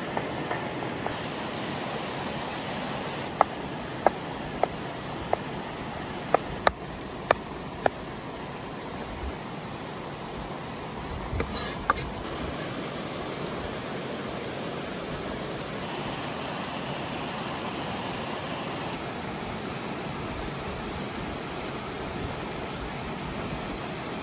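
Steady sizzling hiss from campfire cooking, with a run of about eight sharp pops between three and eight seconds in and a louder crackle near twelve seconds.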